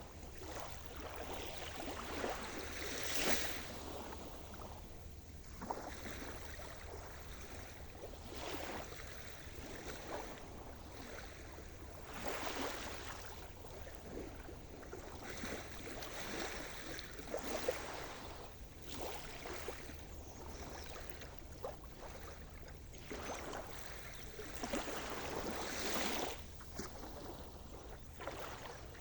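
Sea surf: waves washing in and breaking one after another, each swelling and fading as a hiss every few seconds.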